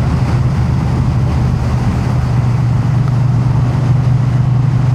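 Triumph Bonneville T100's air-cooled parallel-twin engine running at a steady engine speed, a constant low drone with an even rushing hiss over it.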